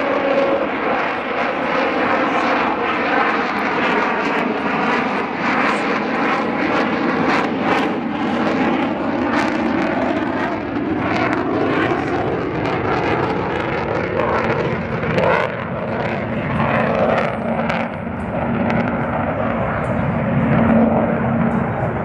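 F-35A Lightning II's single Pratt & Whitney F135 jet engine, heard as loud, continuous jet noise while the fighter flies its display. The noise stays steady in level, with a slowly shifting, phasing quality as the jet moves overhead.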